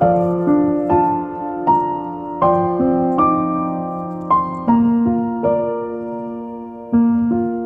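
Background piano music: slow, gentle notes and chords struck about once or twice a second, each ringing on and fading.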